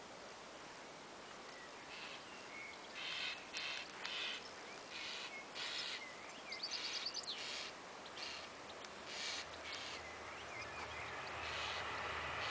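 Wild birds calling and singing, a string of short high chirps and phrases, with a quick run of high notes about two-thirds of the way through. Near the end a low rumble starts to build underneath.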